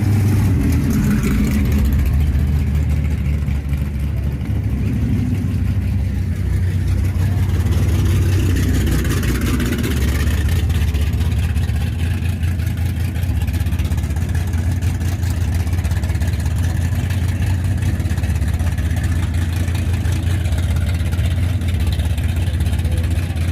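Low, steady engine rumble of show cars and hot rods cruising at low speed.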